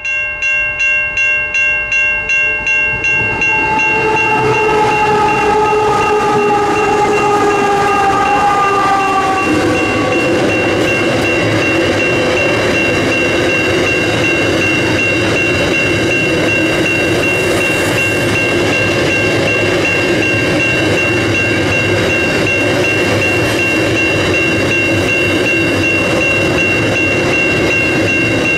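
Level crossing bell ringing in steady pulses about twice a second. From about three seconds in, a train's locomotives pass with tones that slowly fall in pitch, then a long string of loaded grain hopper wagons rolls steadily past. The crossing bell's high ringing tone carries on over the wagon noise.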